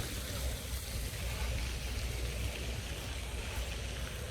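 Wind blowing across the microphone: a steady low rumble with an even hiss above it.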